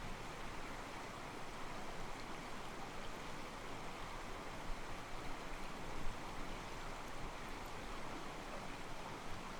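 Calm mountain stream flowing over rocks, a steady soft rush of water sloshing against the stones, with a short louder surge about six seconds in.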